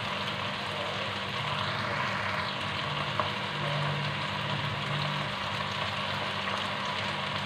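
Chicken and okra korma sizzling steadily in its oily gravy in a cooking pot, with a low steady hum underneath.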